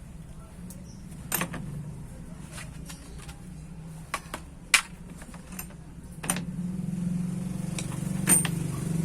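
Hand tools clicking and clinking on the metal of a starter motor as its screws are taken out: about half a dozen sharp separate clicks. Under them runs a low hum that grows louder about two-thirds of the way in.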